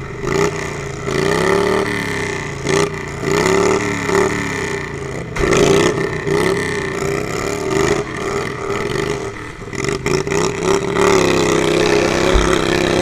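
Lawnmower engines revving up and down over and over, then settling to a steady idle about eleven seconds in.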